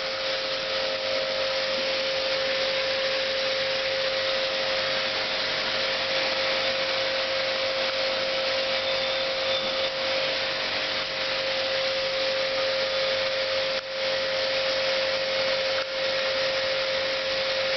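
Electric jet pump running steadily, a constant motor whine over the hiss of its water spray, with two brief momentary dips near the end.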